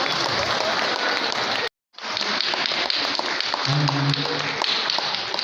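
Busy exhibition-hall crowd din with many small clicks. The sound cuts out completely for a moment about two seconds in, and a steady low hum-like tone sounds for about a second near four seconds in.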